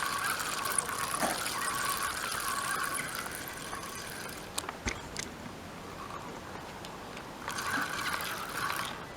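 Fishing reel being wound in on a hooked carp, in two spells of steady whirring with a pause of about three seconds between them, with some water splashing.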